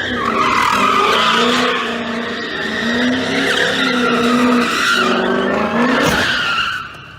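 Car tyres squealing in a long skid, the squeal wavering up and down in pitch over an engine's running note; a brief sharp knock near the end, then the squeal dies away.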